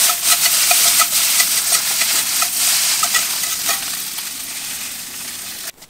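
Instant ramen noodles and kimchi sizzling as they stir-fry in butter in a hot pan, with a spatula stirring and tossing them, making frequent short scrapes and clicks. The sizzle slowly fades and cuts off suddenly just before the end.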